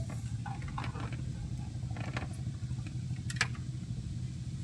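A steady low engine hum, with a few short sharp clicks scattered over it.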